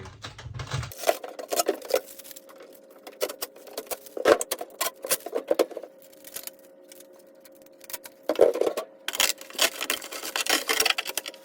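Handling noise from unpacking a new fridge freezer's plastic accessories and packaging: bursts of clicks, clatter and rustling, with a lull about two-thirds of the way through.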